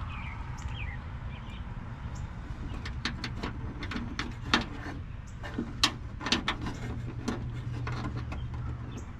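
A series of sharp plastic clicks and scrapes as a running light housing and its bulb socket are worked into a tight fit by hand, mostly between about three and eight seconds in, over a steady low hum.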